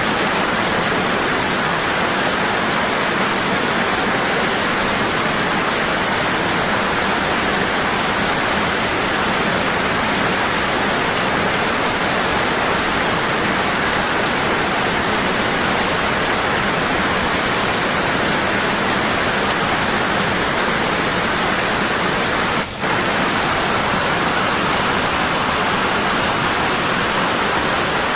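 Waterfall falling strong and steady: a constant, even rush of water, with one momentary dip in level about three quarters of the way through.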